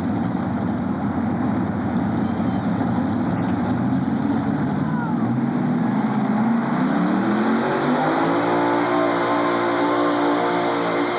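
Modified pulling tractor's engine running hard. About six and a half seconds in, it revs up, rising in pitch, then holds at a steady high pitch.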